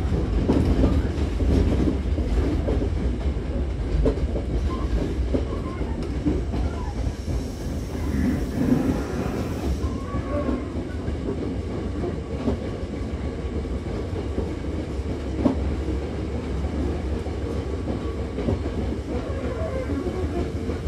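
Running noise inside a Hankyu 7000-series electric commuter train car: a steady rumble of the wheels on the rails, with the clickety-clack of wheels over rail joints.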